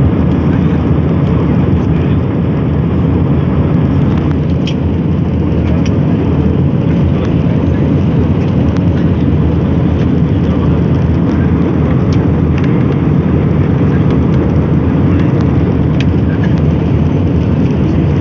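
Airliner engines and rushing air heard from inside the passenger cabin: a loud, steady, deep rumble that holds even throughout.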